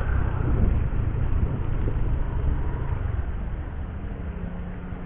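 Motorcycle engine running slowly with a steady low rumble, easing off after about three seconds.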